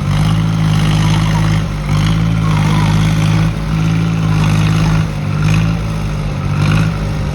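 Swaraj 855 tractor diesel engines running hard under load in a tractor tug-of-war, a steady deep engine note that dips slightly every second or so.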